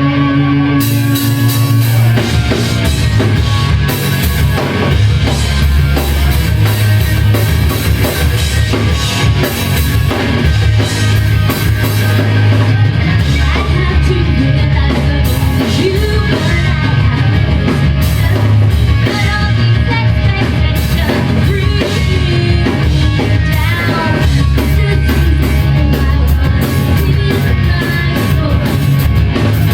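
Live rock band playing a loud song with drum kit, electric guitar and bass, and singing. The full band comes in about a second in, with the drums and bass hitting hard from about two seconds in.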